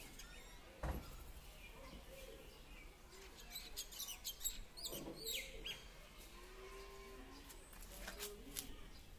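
Faint background of small birds chirping, a few quick rising chirps clustered around the middle, with a single knock about a second in.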